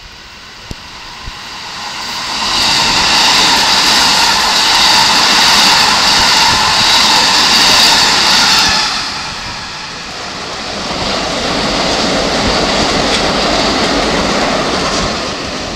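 Keikyu Line electric train passing, getting louder about two seconds in with a high whine over the running noise. It dips briefly past halfway, then swells again as a broader rumble and eases off near the end.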